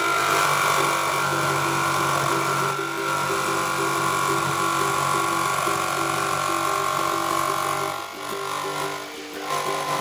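Electric power saw running steadily while cutting a hole through the side of a bus. It stops about eight seconds in and starts cutting again near the end.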